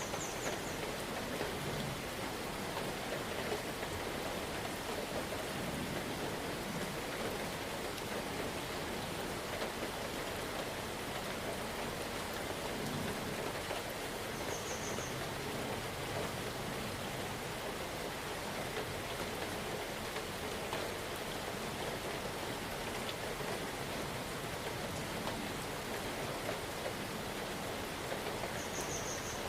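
Steady rain falling, an even hiss of many drops with no let-up. A brief faint high chirp sounds three times: near the start, about halfway through and near the end.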